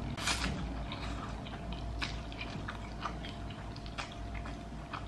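Close-up eating sounds: a bite near the start, then chewing with short wet mouth clicks.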